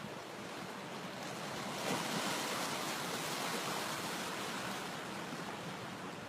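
Steady rushing of a river running high in flood, mixed with wind on the microphone. The noise swells for a couple of seconds from about two seconds in.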